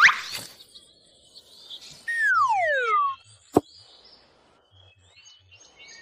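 Bird calls: a quick rising chirp at the start, then a long falling whistled call about two seconds in, followed by a single sharp tap and faint high chirps near the end.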